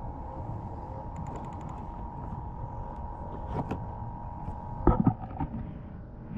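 Knocks and clicks of handling gear aboard a kayak over a steady wind-and-water background, with a quick run of small clicks a little after a second in and sharp knocks about three and a half and five seconds in, the loudest near five seconds.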